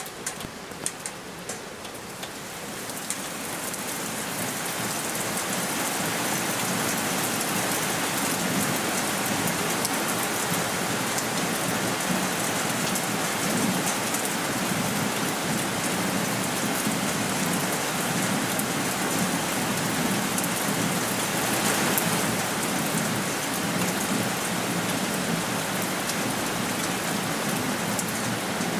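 Heavy rain, swelling over the first few seconds into a steady downpour, with a few sharp ticks near the start.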